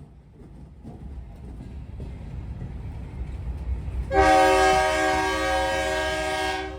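Approaching freight train's low rumble building, then a Norfolk Southern locomotive's multi-chime air horn sounding one long blast of several steady tones about four seconds in, stopping near the end.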